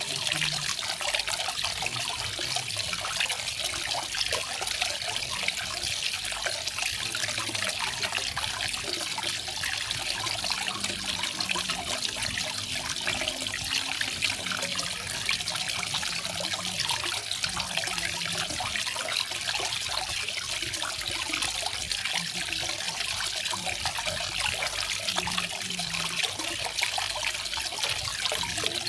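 Small garden waterfall, water splashing and trickling steadily with a bright, even hiss.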